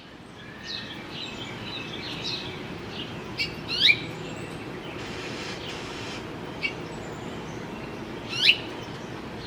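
Several birds calling outdoors: scattered short chirps, with two louder, sharp down-slurred calls about four seconds in and near the end, over a steady low rushing background noise.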